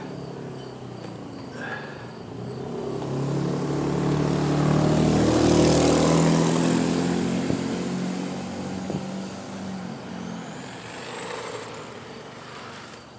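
A car driving past on the street: its engine and tyre noise swell as it approaches, peak about five seconds in, then fade away as it moves off.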